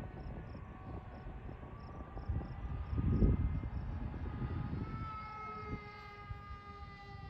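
Electric motor and propeller of an E-flite 600mm Ultrix RC plane whining in flight, its pitch shifting slightly with throttle. Wind gusts buffet the microphone, strongest about three seconds in.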